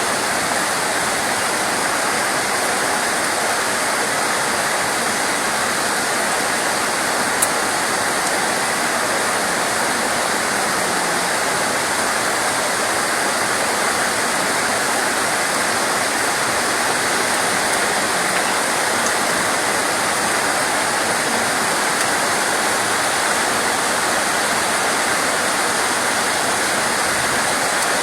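Steady, unbroken rain, an even hiss of falling water with no let-up, and one small tick about seven seconds in.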